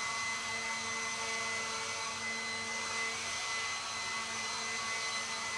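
Battery-operated leaf blower running at a steady speed: an electric motor whine with a few steady tones over the rush of air.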